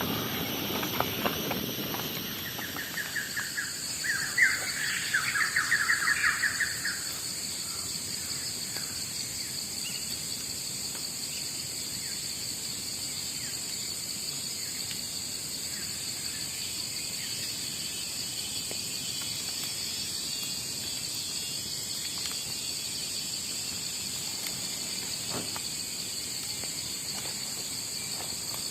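Insects calling in a steady high-pitched chorus. A louder, rapidly pulsing call from another animal rises over it from about three to seven seconds in.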